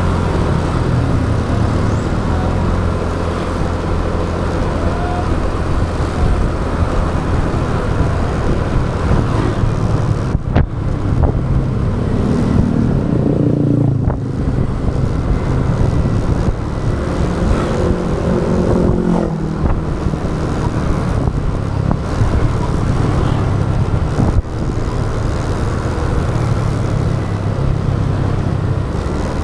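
Motorbike engine running under way, heard from the moving bike, with steady road and wind noise; the engine note rises and falls a couple of times as the bike speeds up and slows.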